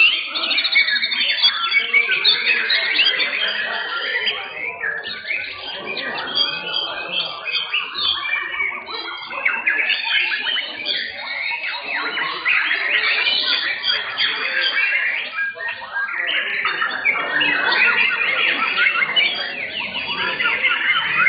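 Several white-rumped shamas (murai batu) singing at once, a dense, continuous tangle of rapid overlapping chirps and whistles.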